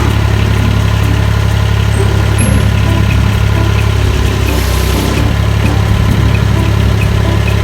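1.2-ton HAIHONG mini excavator's small diesel engine running steadily at a low, even hum.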